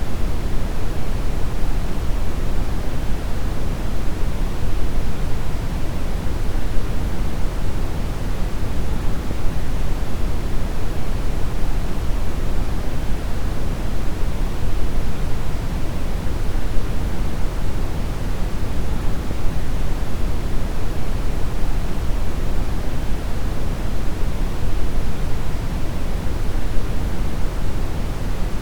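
Steady deep brown noise: an even, unchanging rumbling hiss weighted heavily toward the bass, with the highs rolled off.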